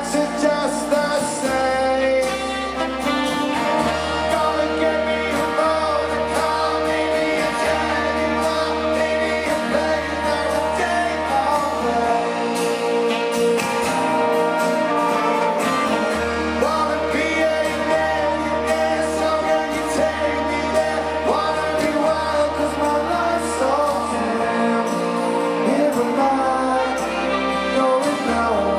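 A rock band playing live on stage, with sustained chords over a bass line that changes note every couple of seconds.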